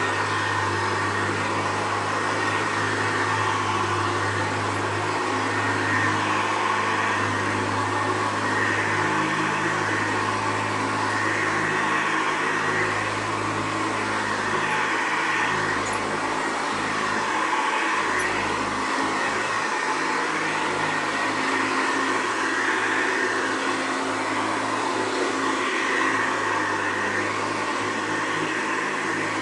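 1972 Hoover Ranger upright vacuum cleaner running steadily on a freshly fitted drive belt, a noisy, even motor sound with a low hum and a gently swelling hiss.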